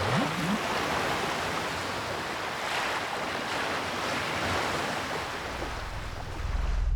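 Steady rush of sea surf, swelling slightly about three seconds in, with a few short bubbling gurgles at the start; it cuts off abruptly near the end.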